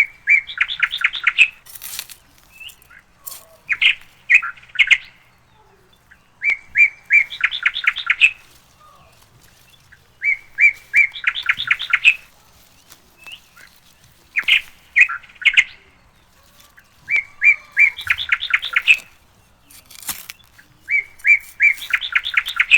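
A songbird singing the same short phrase over and over, about every three to four seconds: a few even notes followed by a quick run of sweeping notes. A few sharp clicks fall between the phrases.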